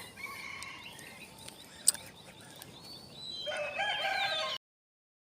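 A rooster crows in the background for about a second, after a single sharp click; then the sound cuts off abruptly to dead silence.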